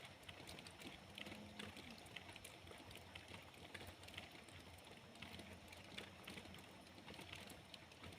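Faint rain, with scattered drops ticking irregularly on a surface over a soft steady hiss.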